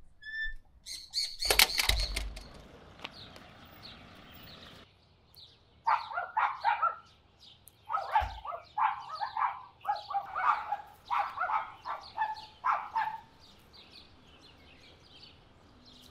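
Small birds chirping in quick, busy clusters from about six seconds in until about thirteen seconds, with a brief rushing burst near the start.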